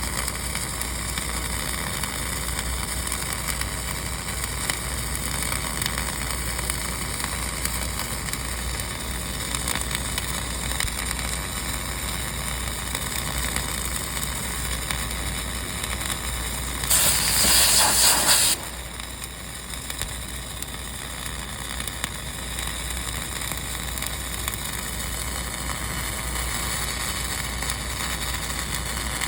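Dual-shield flux-cored arc welding on a vertical joint: the arc's steady crackle and sizzle. About two-thirds of the way through comes a louder rush of noise lasting a second and a half.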